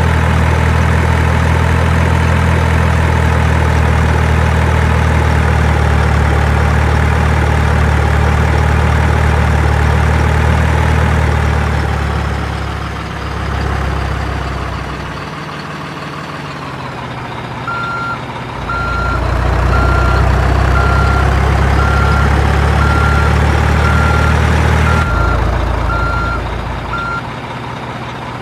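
Heavy truck engine running with a low, steady hum that eases off in the middle. Just past halfway, a reversing alarm starts beeping about once a second, stopping shortly before the end.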